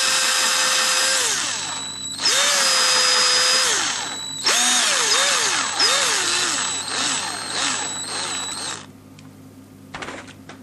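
Small electric drill with a 3 mm bit running in three bursts, drilling out bolt holes in a 3D-printed plastic part. Its motor pitch dips several times in the last, longest burst as the bit bites, and it stops about nine seconds in.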